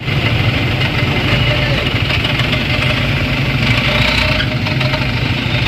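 A dump truck's engine running steadily, with a deep, even low-pitched drone.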